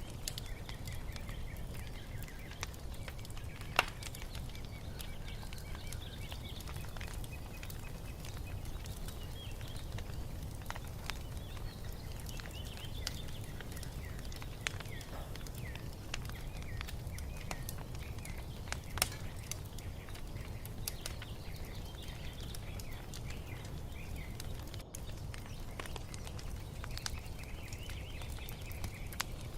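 Wood fire crackling with scattered sharp pops, the loudest about 4 and 19 seconds in, over a steady low rumble, with small birds chirping throughout.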